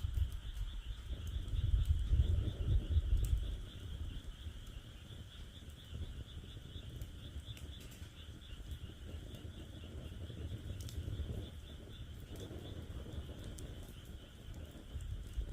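Wood crackling in a campfire stand with scattered sharp pops, over a steady high, pulsing chorus of frogs calling. A low rumble in the first few seconds fades out.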